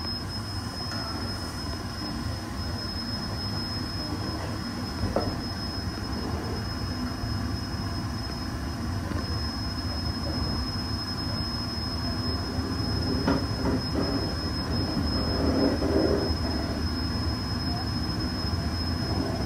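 Passenger train running along the line: a steady rumble of wheels on rail with a few short knocks from rail joints and a thin, steady high whine. It grows a little louder near the end.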